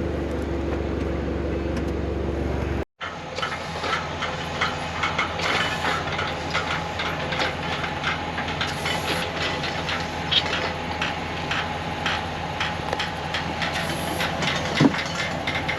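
A machine engine running steadily. After an abrupt cut, heavy machinery runs with a steady hum and rapid, irregular metallic clattering and knocking, like tracks or a working attachment rattling.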